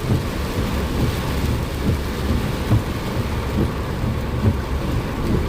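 Heavy rain pelting a car's roof and windscreen, heard from inside the moving car. It is a steady hiss with irregular low thuds from heavy drops and gusts.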